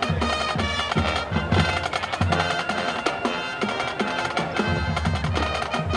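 Marching band playing: brass holding chords over a steady beat of bass and snare drums.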